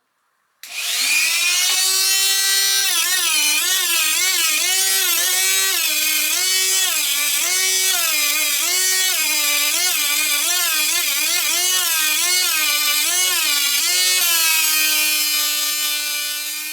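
Small electric power-tool motor running at high speed with a whine whose pitch dips and recovers over and over, as if load is pressed on and eased off. It starts about a second in, and near the end the pitch settles steady before it runs down.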